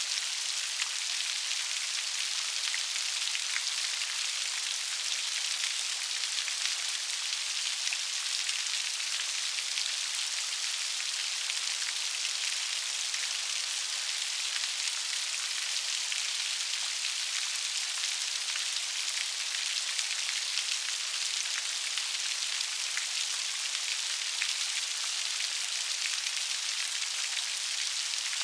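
Steady rain falling, an even hiss of many fine raindrops pattering on a surface with no let-up.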